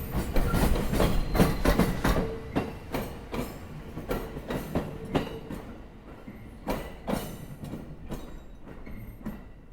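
A Sobu Line train's wheels clacking over rail joints as it passes: a quick run of loud knocks that thins out and gets quieter as the last cars go by.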